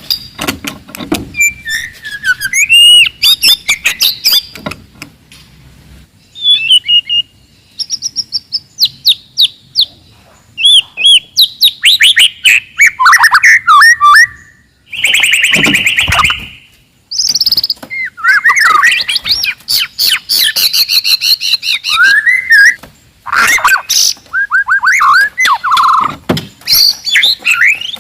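White-rumped shama singing loudly and aggressively: a fast, varied song of whistled notes that glide up and down, broken by rapid trains of clicking notes.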